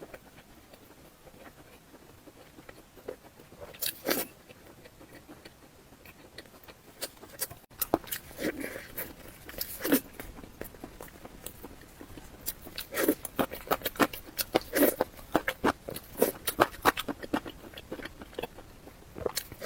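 Close-miked eating: crunchy mouthfuls of mala xiang guo being bitten and chewed, a scatter of sharp crunches that come thick and fast from about eight seconds in.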